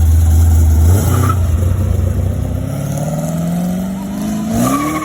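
A car accelerating: the engine pitch climbs steadily for several seconds, then drops near the end as it shifts or lets off, growing slowly quieter as it pulls away.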